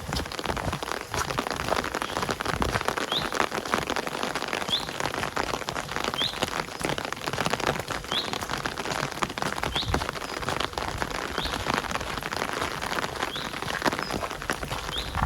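Steady rain, a dense patter of drops. A bird gives one short high call about every second and a half throughout.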